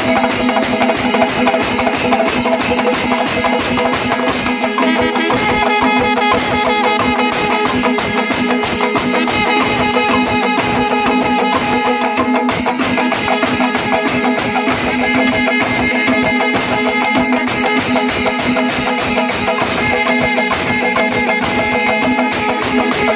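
Kerala temple melam ensemble playing loudly: a fast, even beat on drums and cymbals under a steady held wind-instrument tone.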